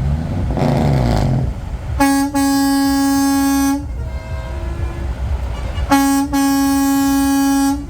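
Truck air horn sounded in two long blasts of one steady note, each nearly two seconds long, with a fainter horn note between them. Truck engine noise rising and falling in pitch at the start.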